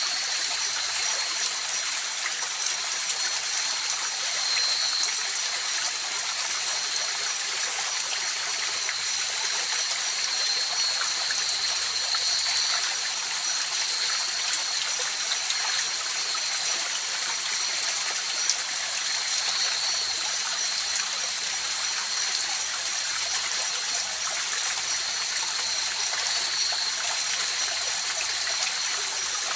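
River water flowing steadily, an even rushing hiss, with a steady high-pitched trill running above it.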